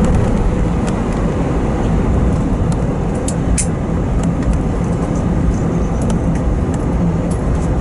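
Steady rumble inside the cabin of an Airbus A320 taxiing to the gate after landing, with scattered faint ticks.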